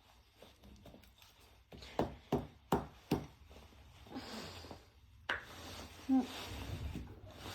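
A handful of sharp knocks and taps on a hard object, five in about a second and a half, then one more a couple of seconds later.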